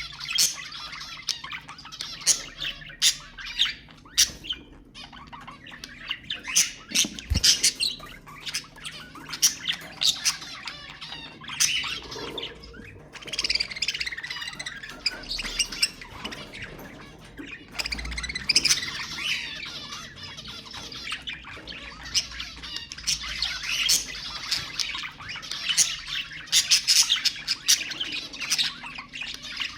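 Budgerigars chattering and warbling, with many rapid chirps and sharp squawks overlapping.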